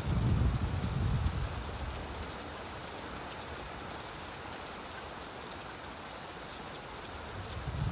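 Steady rain falling, an even hiss with fine pattering drops. A low rumble of thunder dies away in the first second and a half and starts to build again at the very end.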